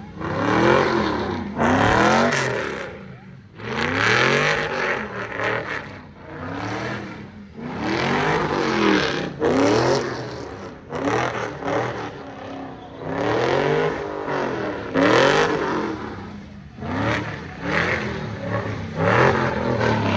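Car engine revved hard again and again, its pitch climbing and dropping every second or two, with a rushing noise from spinning tyres, as a car does donuts at a sideshow.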